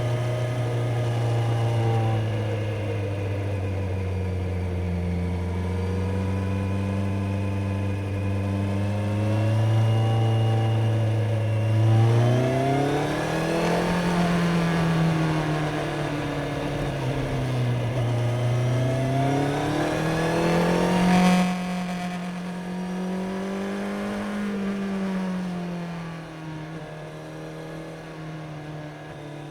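Kawasaki Z900's inline-four engine under way: steady for a while, then revving up and easing off twice, its pitch rising and falling. A sharp crack comes about two-thirds of the way through, and the engine is quieter near the end.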